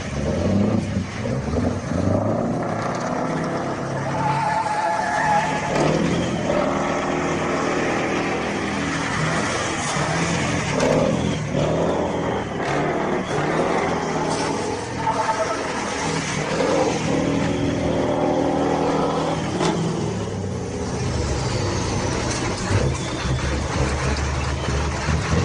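Heavy truck engine running, its pitch rising and falling as it works.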